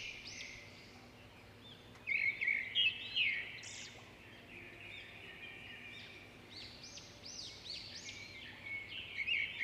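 Small birds chirping: many quick, arching chirps repeated in clusters, loudest about two to three seconds in and busy again near the end.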